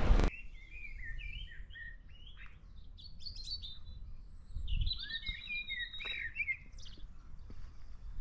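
Loud wind and water noise cuts off abruptly in the first instant. Then small birds chirp and sing in many short warbling phrases over a faint low wind rumble.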